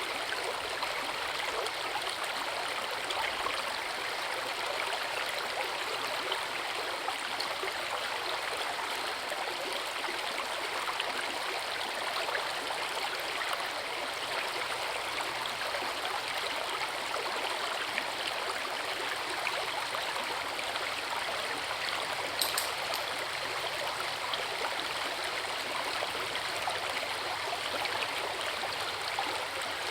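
Forest river and waterfall water running steadily, an even hiss without pause. There is one brief high click about three-quarters of the way through.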